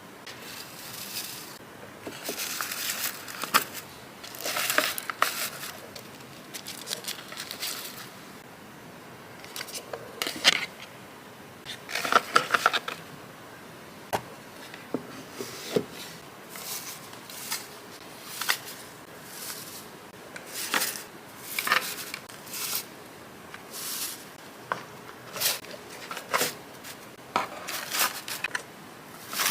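Close-up handling of jewellery packaging: paper and plastic wrapping rustling and crinkling in irregular bursts, with many short sharp clicks and taps of small items and box parts.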